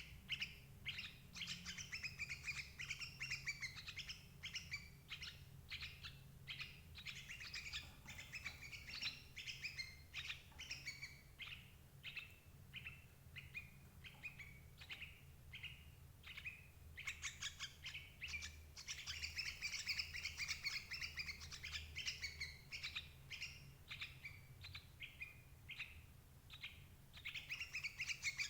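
Yellow-vented bulbuls calling: a rapid, unbroken stream of short chirps and bubbly notes, with a low steady hum underneath.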